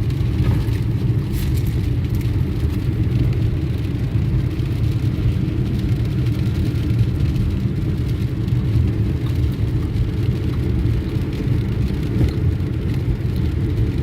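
Steady low road rumble inside a moving car, with tyre noise from driving on wet, slushy roads.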